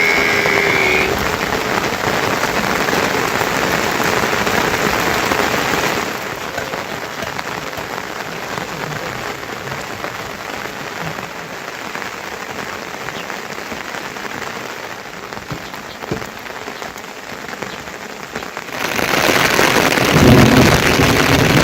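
Steady rain falling. It drops suddenly to a softer level about six seconds in and turns heavier again near the end.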